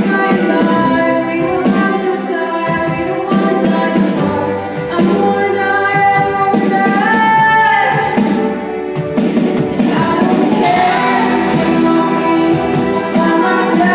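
Female voice singing a pop ballad over musical accompaniment, with long held notes.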